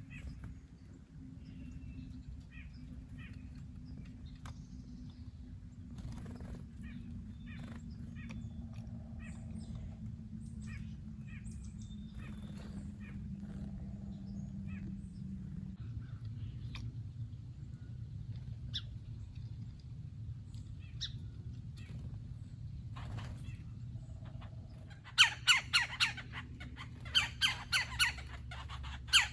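Small birds chirping here and there over a steady low rumble, then near the end a bird squawking loudly, again and again, a few calls a second.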